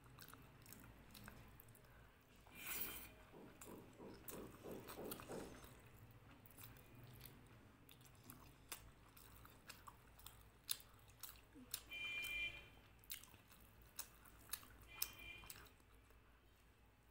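Close mouth sounds of eating chicken curry and rice by hand: chewing with wet lip smacks and sharp clicks, louder for a few seconds near the start. Two brief high squeaks come in the second half.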